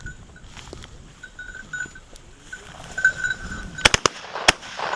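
A faint, high ringing tone that comes and goes, like a small bell, with a few sharp clicks about four seconds in.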